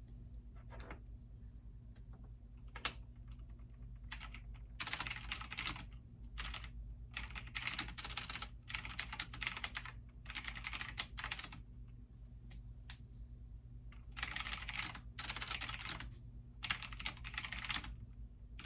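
Computer keyboard typing in runs of rapid key clicks broken by short pauses, after a few single keystrokes at the start. A steady low hum runs underneath.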